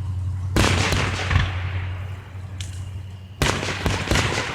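Aerial fireworks going off: two loud bangs, about half a second in and again about three and a half seconds in, each trailing off, with smaller pops between and after.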